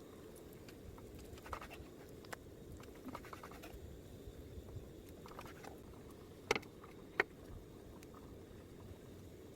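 Scattered light scratching and rustling with small clicks, as of objects being handled close by. Two sharper clicks come about six and a half and seven seconds in.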